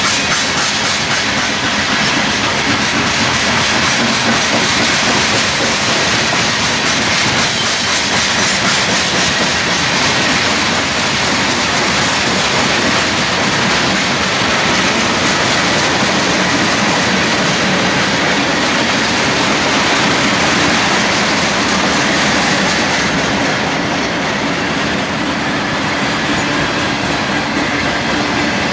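A train rolling past close by, its steel wheels clattering steadily over the rails, loud throughout and a little less sharp in the last few seconds.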